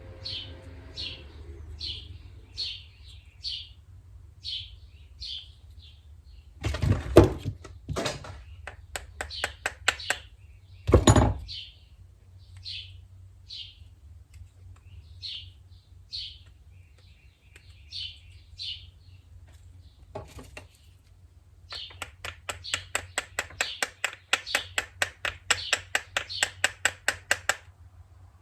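A bird chirping a short high note over and over, about once or twice a second. Two loud knocks come about a quarter and about two-fifths of the way in, and near the end there is several seconds of rapid, even clicking.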